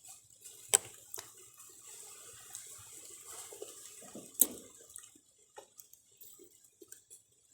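Faint, irregular wet sounds of durian being handled and eaten, with two sharp clicks, one about a second in and one past the middle.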